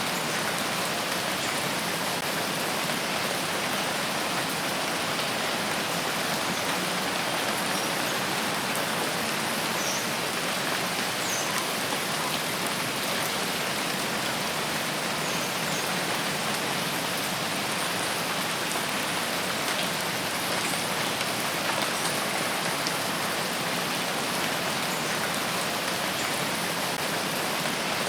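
Steady rain falling, an even unbroken hiss of many drops with no change in strength.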